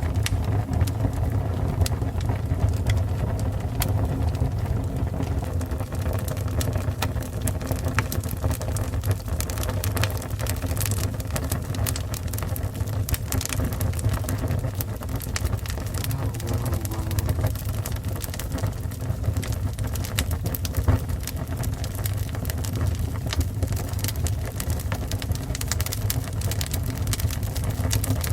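A fire burning: a steady low rumble of flames with frequent small crackles and pops scattered irregularly throughout.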